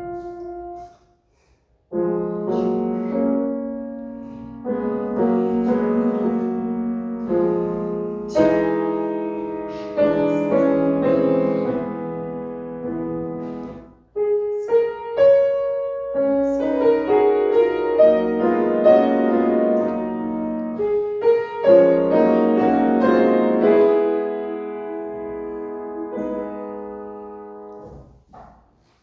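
Piano playing a slow classical passage in full chords, with two short breaks: about a second and a half in and about fourteen seconds in.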